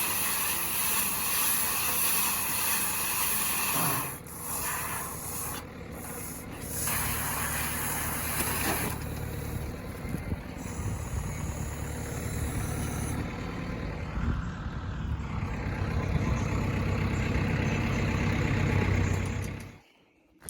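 Farm tractor and haymaking machinery running steadily, heard over several cut-together clips. The first half is a strong hiss; from about halfway a lower steady engine hum takes over.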